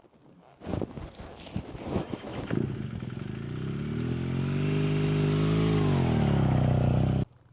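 Motorcycle engine pulling under load: a couple of seconds of knocks and clatter, then the engine note rises, holds steady and eases back down before cutting off suddenly near the end.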